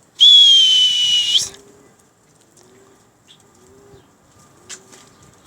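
Domestic pigeons cooing softly over and over, with one loud, steady, slightly falling whistle lasting just over a second near the start.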